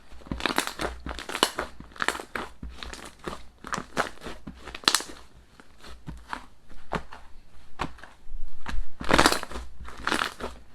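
Slime being squeezed and mixed by hand, giving a dense run of irregular sticky pops and crackles, heaviest about nine seconds in.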